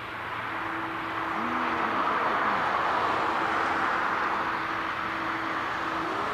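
Jet engine noise from a Boeing 777-200ER passing the spotting position, swelling over the first two to three seconds and then easing a little, with a steady hum underneath.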